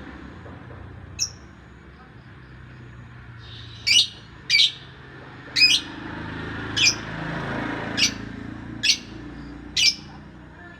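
A songbird giving short, sharp calls, each a quick falling chirp, repeated about once a second, around eight times, with one fainter call before them.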